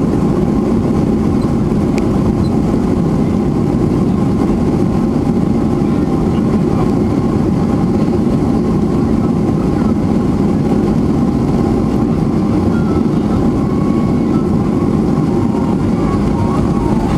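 Steady engine and airflow roar heard from inside the cabin of a Boeing 737-400 airliner, with a faint whine of thin steady tones above it.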